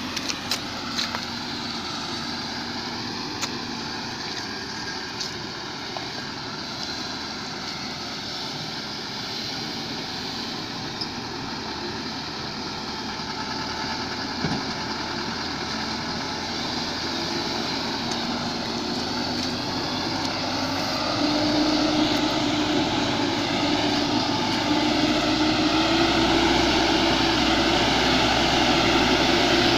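A vehicle engine running as the vehicle drives, over a constant rushing noise. About two-thirds of the way through, a steady engine tone comes in and the sound grows louder.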